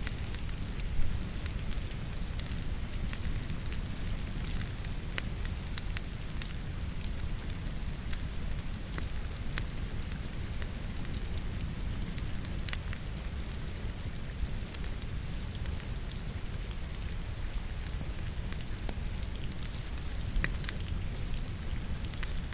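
Wood fire crackling in a fireplace, with scattered sharp pops over a low steady rumble, against steady rain. One louder pop comes about a second in.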